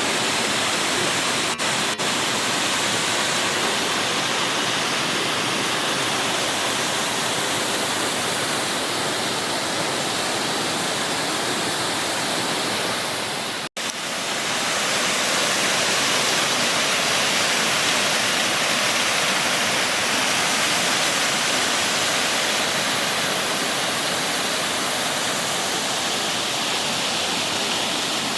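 Water of the All Saints Waterfalls rushing down its cascades, a loud, steady rush. It cuts out completely for an instant about halfway through.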